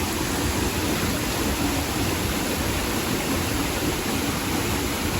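Steady rushing of nearby falling water in the rain, an even hiss with no breaks.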